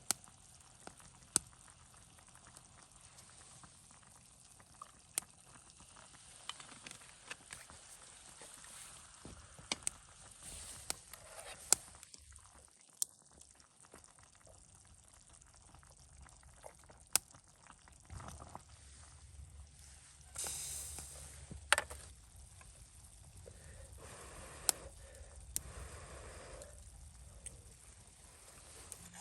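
Wood campfire crackling, with sharp single pops every second or few seconds, over a faint steady sizzle of food cooking over the fire. About twenty seconds in there is a brief louder rush of noise.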